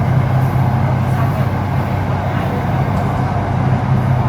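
Metro train running between stations, heard from inside the car: a steady running noise with a strong low hum.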